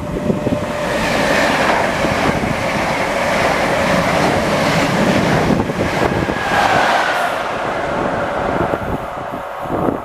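Class 90 electric locomotive and its Mark 3 coaches passing through at speed without stopping: a loud rush of wheels on rail, with a steady whine over it, building about a second in and easing off near the end.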